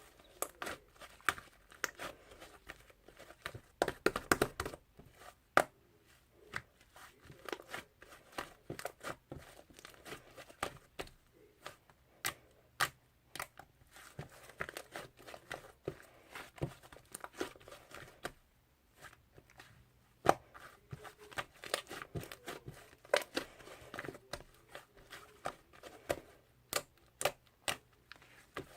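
Fluffy clay slime being squeezed and stretched by hand, giving an irregular run of sharp crackling clicks and small pops. There is a brief lull partway through.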